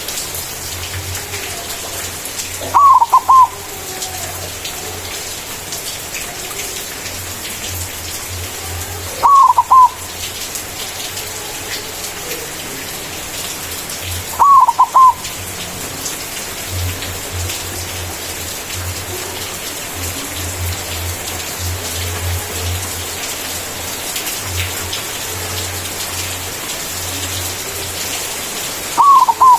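White zebra dove (perkutut) in full cooing song: four short bouts of quick, falling coo notes, several seconds apart, with a longer pause before the last. A steady hiss runs underneath.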